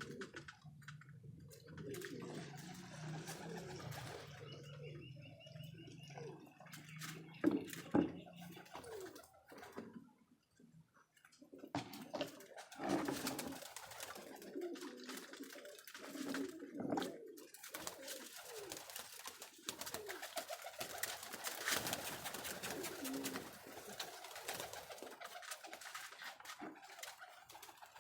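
Domestic pigeons cooing in a loft, with scattered sharp clicks and knocks. A steady low hum runs under the first nine seconds or so, then stops.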